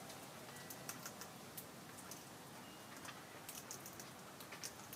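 Faint, irregular small clicks and ticks, typical of cockatoos cracking and husking birdseed in their beaks.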